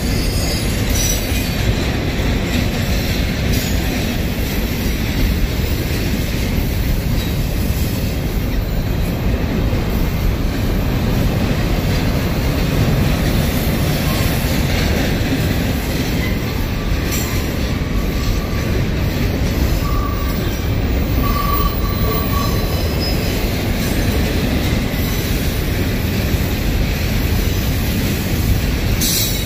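Double-stack intermodal freight cars of a Union Pacific train rolling past, a steady rumble of steel wheels on rail, with a few short faint wheel squeals about two-thirds of the way through.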